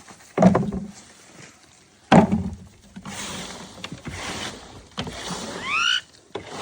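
Pet parrot making short calls, with a squeaky, rising whistled call near the end.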